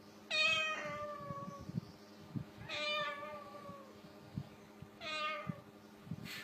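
Parrot imitating a cat's meow three times, each call a falling, drawn-out mew.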